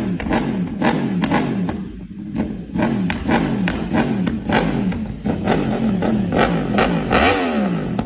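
Superbike engine revved in quick repeated blips, its pitch rising and falling over and over, dipping briefly about two seconds in.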